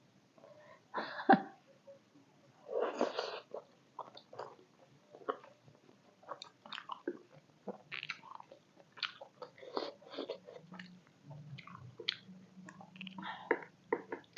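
Close-miked chewing of a juicy beef momo: a run of short, wet mouth clicks and smacks, with two louder noisy bursts about a second and three seconds in.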